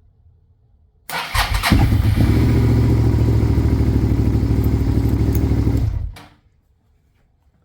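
2005 Suzuki SV650's 645cc V-twin is cranked by its starter about a second in, catches within half a second and runs steadily for about four seconds, then stops abruptly. This is a successful start on a cold-soaked WEIZE YXT14-BS lithium battery warmed to about 55 °F, which held a much higher voltage while cranking.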